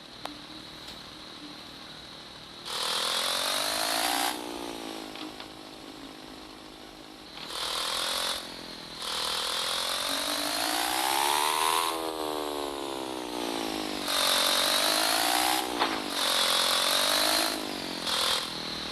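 Small motorcycle engine idling and being revved about six times, the pitch climbing and falling back with each rev, one longer rev rising and falling near the middle.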